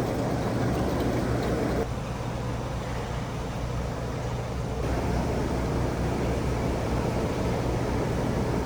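Steady low drone of the car ferry Ishikari under way, a constant engine hum under a wash of rushing noise. Its tone and level shift slightly about two and five seconds in.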